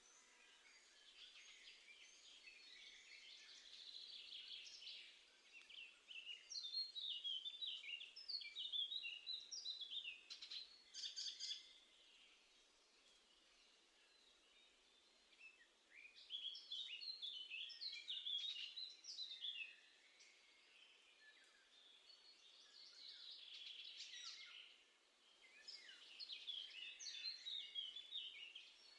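Small songbirds singing: several phrases of quick, high chirping notes, each a few seconds long, with quieter gaps between them over a faint outdoor hiss.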